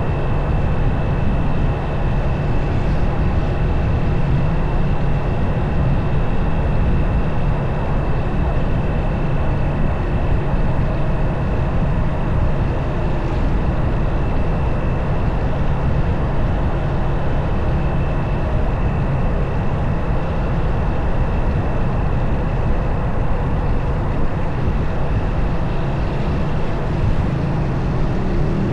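Motorcycle riding steadily: heavy wind rush on the mic over the engine running at an even speed, with a thin steady high whine.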